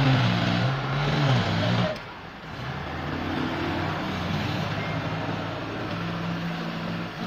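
An engine revving hard with a wavering pitch for about two seconds, then dropping to a steadier, quieter run.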